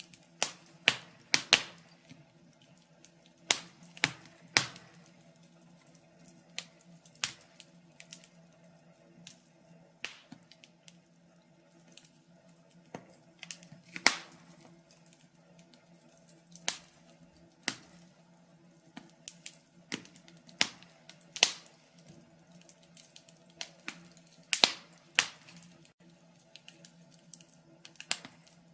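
Wood logs burning in a fireplace, crackling with irregular sharp pops and snaps, some much louder than others, over a faint steady low hum.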